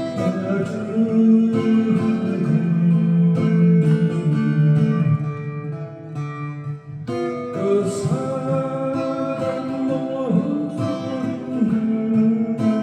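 Acoustic guitar playing a slow melody, the notes held and sustained, with a brief pause about seven seconds in.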